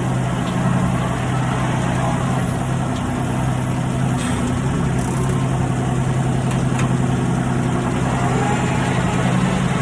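Tractor engine idling steadily at an even, unchanging speed.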